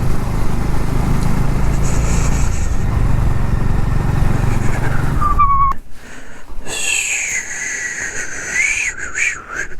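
Bajaj Dominar motorcycle's single-cylinder engine running at idle, then stopping abruptly about six seconds in. After that, quieter high-pitched wavering tones are left.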